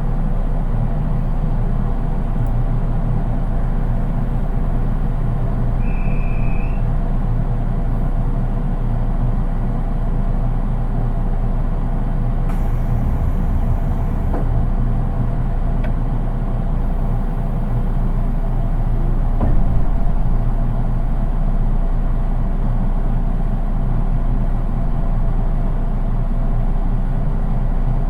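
Running noise inside a JR East 183 series DC express electric train, heard in its unpowered KuHa 183 cab car: a steady rumble of the wheels on the rails, with little motor sound. A brief high tone sounds about six seconds in, a high hiss lasts about two seconds near the middle, and a small knock comes about twenty seconds in.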